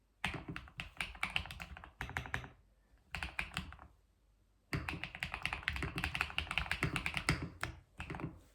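Typing on a computer keyboard: quick runs of keystrokes clacking, broken by short pauses, with the longest run in the second half.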